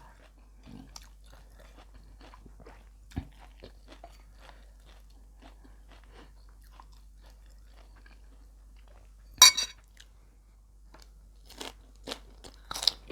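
Close-miked chewing of beef laab and rice, soft wet mouth clicks throughout, with a sharp click about 3 seconds in and a few loud crunches from about 9.5 seconds on.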